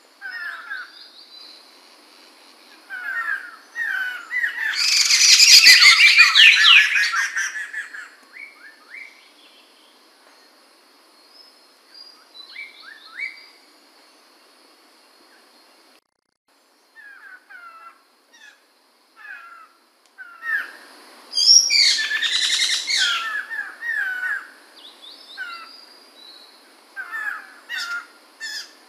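Poksay mantel laughingthrush singing: scattered short whistled notes, with two loud, rapid song phrases, one a few seconds in and one about two-thirds of the way through.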